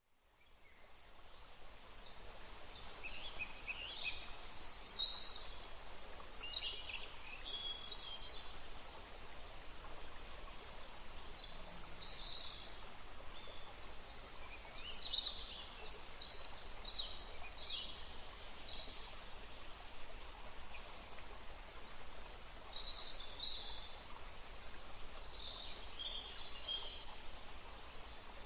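Woodland ambience: small birds chirping and trilling on and off over a steady background hiss, fading in over the first couple of seconds.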